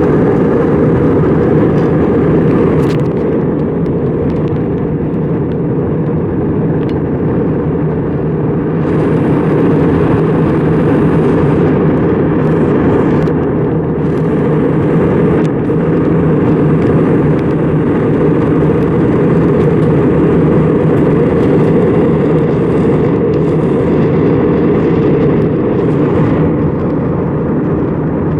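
Steady noise of an Airbus A320's engines and rushing air, heard inside the passenger cabin, deep and even, with brief spells of extra hiss on top.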